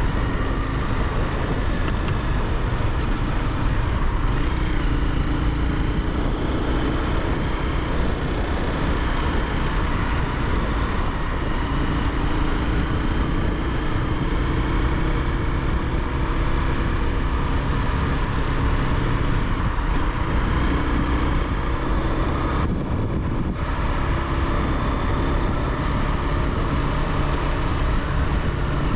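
Honda CBR300R's single-cylinder engine running steadily under way, its pitch drifting gently up and down with throttle, over a heavy low rumble.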